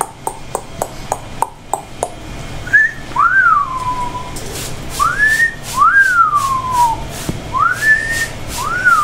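Three wolf whistles, each a clean tone that swoops up and then falls away, about two to three seconds apart, from the bathing session with the eclectus parrot. Before them comes a quick run of sharp clicks, about four a second, lasting roughly two seconds.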